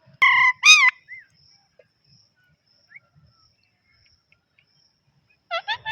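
Pet parrot calling: two loud, shrill calls just after the start, the second bending up and down in pitch, then a quick run of short calls near the end.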